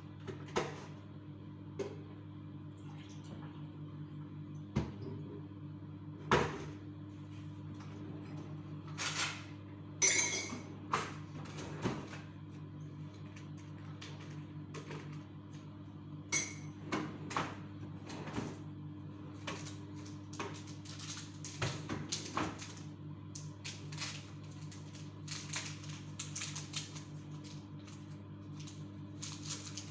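Kitchen handling noises while a sandwich is being made: scattered knocks, clinks and short scrapes of dishes and cutlery, over a steady low hum.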